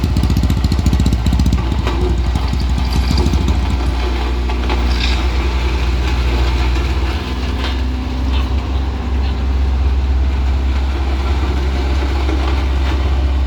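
Engine of a heavy vehicle running close by with a strong, steady low rumble, fast and uneven for the first couple of seconds, then settling.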